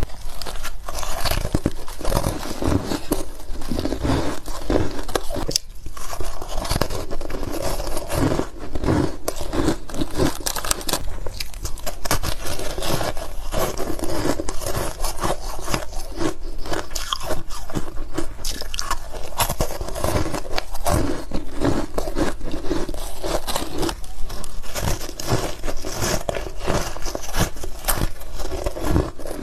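Close-miked bites into powdery, crunchy ice and chewing of the ice, a dense run of crisp crunches and crackles.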